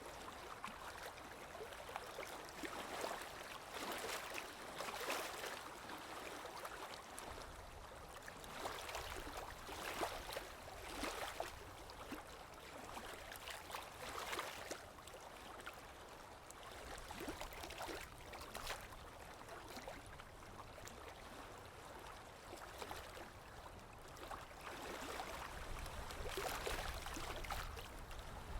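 Water flowing and splashing continuously, swelling and easing irregularly every second or two.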